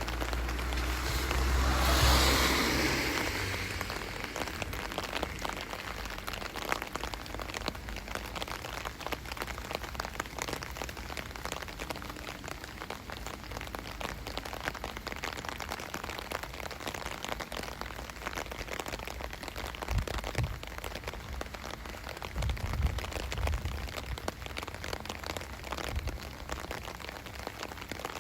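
Steady rain, a dense even hiss dotted with individual drops ticking. About two seconds in it swells briefly louder with a low rumble, and a few low thuds come through later on.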